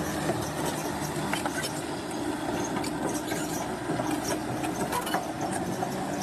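Bulldozer's diesel engine running steadily, with scattered clanks and clicks over it.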